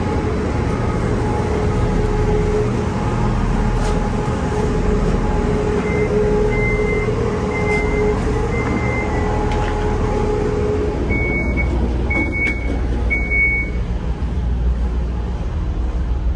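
Stadler GTW diesel railcar idling at the platform with a steady low rumble and hum. About six seconds in comes a run of four short high beeps, and a few seconds later a run of three more.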